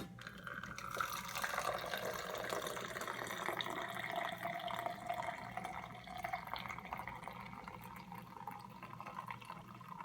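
Freshly brewed coffee pouring in a steady stream from a coffee maker's carafe into a mug. The stream is fullest over the first half or so and thins out toward the end.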